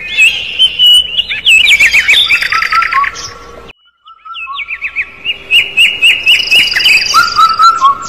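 Young birds chirping: fast runs of short, high chirps, several a second. The chirping breaks off suddenly about halfway through and starts again half a second later.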